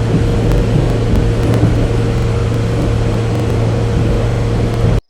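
Train running, a steady rumbling noise with a constant low hum, cutting off abruptly near the end.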